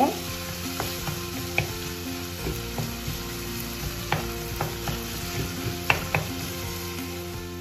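Chopped tomatoes and onions sizzling in oil in a pan while a wooden spatula stirs them, with a few sharp taps and scrapes of the spatula against the pan.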